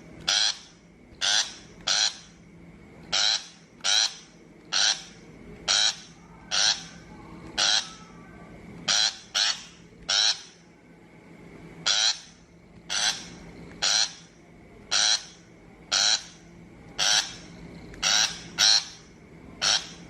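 Shrike giving harsh, grating scolding calls, one short call about every second, about twenty in all.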